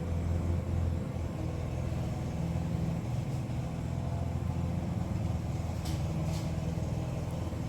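A steady low droning hum with a few faint short ticks about six seconds in.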